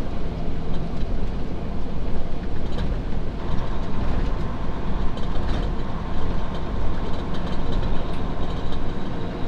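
Steady engine and road noise inside the cab of a semi-truck tractor driving without a trailer. A faint steady whine joins in about three and a half seconds in.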